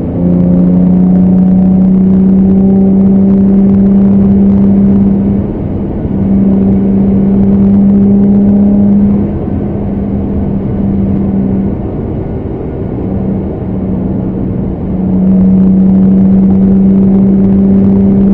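2015 Camaro 1LT's V6 through its factory dual-mode performance exhaust, under hard throttle in fourth gear at highway speed: a loud, steady exhaust drone at nearly constant pitch. It eases off briefly about five seconds in, then for several seconds in the middle, before coming back loud near the end.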